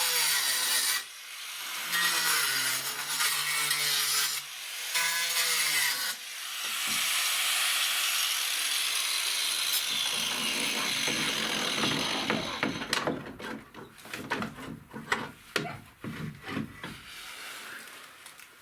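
An electric saw cutting through a corrugated asbestos-cement (slate) roof sheet, its motor running in several bursts with a shifting pitch, then about six seconds of one continuous cut. After that come irregular knocks and clatter as the cut is finished and the pieces are handled.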